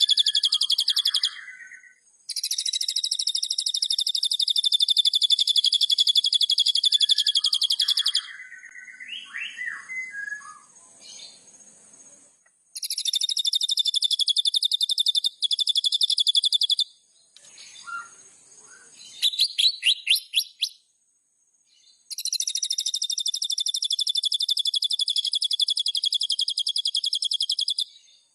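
White-rumped shama singing vigorously. Long, fast buzzy trills of several seconds each alternate with short whistled glides and a quick run of clear notes.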